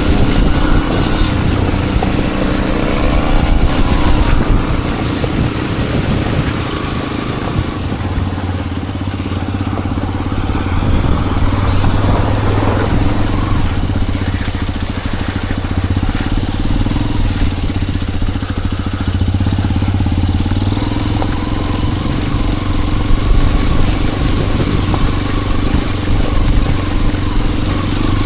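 Hero XPulse 210's single-cylinder engine running while the motorcycle is ridden, its exhaust note rising and falling with the throttle and easing off briefly about eight seconds in.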